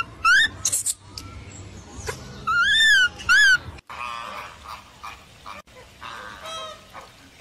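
Animal calls: two pairs of loud, high calls that rise and fall in pitch, each pair a longer call followed by a shorter one, then, after a break, a quicker run of nasal, honking calls.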